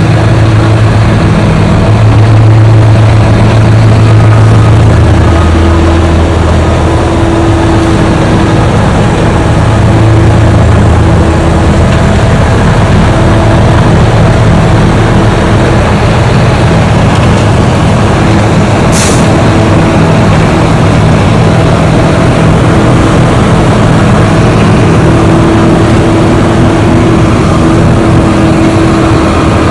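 An engine running loudly and steadily, its pitch shifting slightly now and then, with one brief sharp click about two-thirds of the way through.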